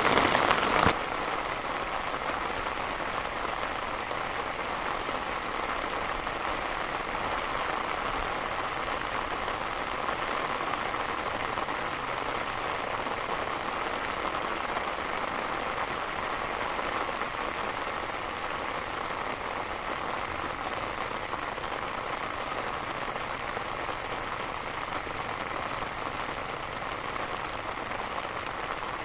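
Steady rain falling, a dense even patter of drops, a little louder for the first second and then steady.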